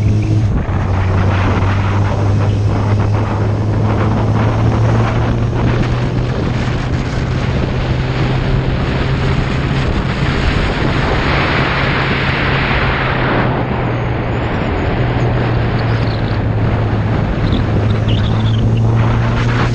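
Motorcycle engine running steadily at cruising speed, with heavy wind noise rushing over the microphone. The wind swells for a few seconds past the middle, and the engine note dips briefly about three quarters of the way through.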